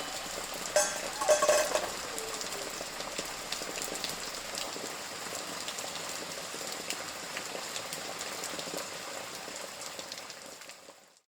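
Steady rainfall, an even patter with fine drop ticks, fading out near the end. About a second in come a couple of short pitched sounds.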